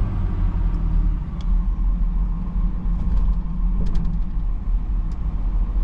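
Ford Super Duty plow truck driving along, its engine and road noise making a steady low rumble. The exhaust was a straight pipe and now has a muffler.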